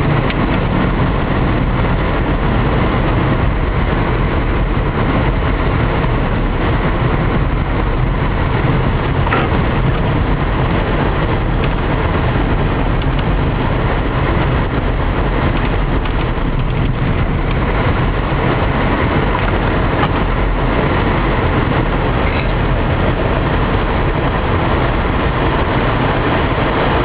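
Car driving on a snow-covered road, heard from inside the cabin: a steady mix of engine and tyre noise, with a low steady rumble underneath.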